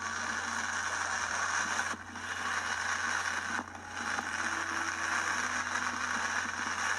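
Steady hiss of background static with a low hum underneath, dipping briefly about two seconds in and again near four seconds.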